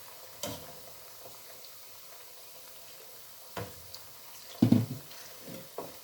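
Plantain slices frying in oil with a faint, even sizzle. A utensil knocks and scrapes against the pan several times as the slices are stirred, loudest a little past the middle.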